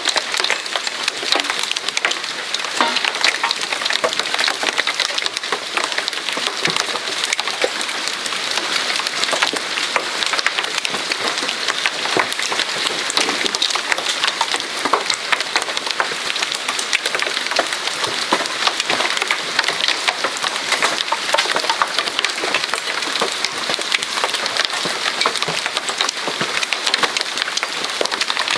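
Hail pelting down, a dense, steady clatter of many small hard impacts.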